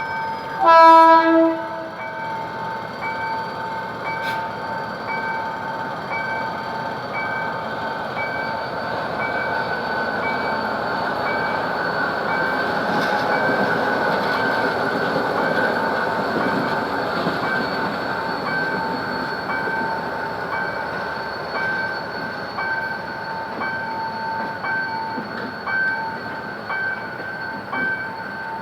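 GM GT-22CW diesel locomotive sounds one short horn blast about a second in, then it and its passenger cars rumble past, loudest around the middle, with wheels clicking over the rail joints near the end. A steady high pulsing tone sounds throughout.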